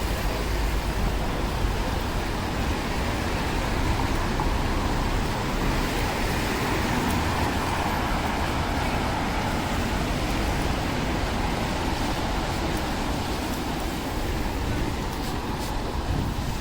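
Steady city street traffic on rain-wet roads: a constant low rumble and tyre hiss, swelling as a vehicle passes in the middle.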